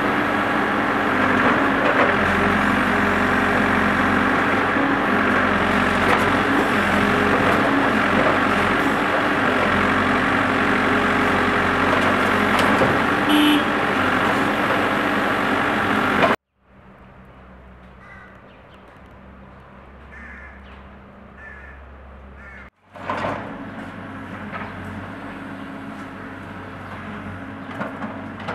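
Heavy machinery running loud and steady, as at road works laying gas pipe. After a sudden cut comes a much quieter stretch with a few short high calls, and after another cut a steadier engine and street noise at middling level.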